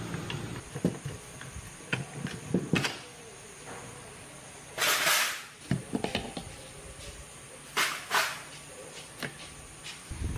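Light clinks and knocks of metal parts and tools being handled during motorcycle repair work, with a hissing burst lasting about half a second around five seconds in and two shorter hisses near eight seconds.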